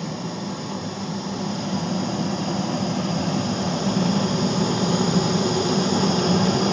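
York modulating condensing gas furnace running: a steady mechanical hum of its blower and burners with a low drone, growing gradually louder.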